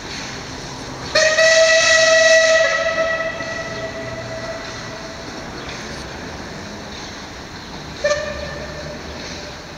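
Steam whistle of the MÁV 324.540 steam locomotive: one long single-tone blast starting about a second in that tails off over a few seconds, then a short blast near the end.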